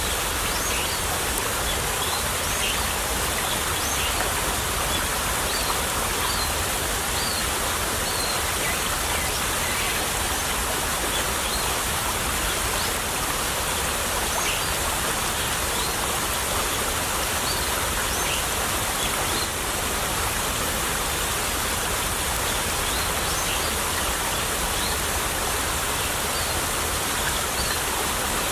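Small stream babbling steadily over stones, an even rush of water with brief high-pitched plinks scattered through it.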